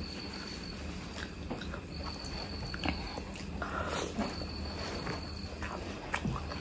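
Close-miked eating of mutton curry: scattered wet mouth clicks and chewing. A thin high tone about a second long recurs roughly every two seconds behind it.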